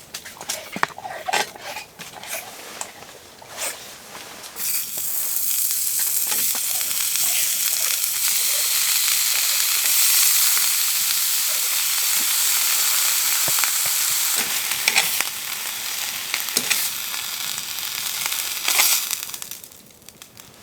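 Canadian bacon sizzling in a hot pan. The steady high sizzle starts suddenly a few seconds in, after clinks and knocks of pan and utensils, and dies down near the end, with a few clicks of a utensil along the way.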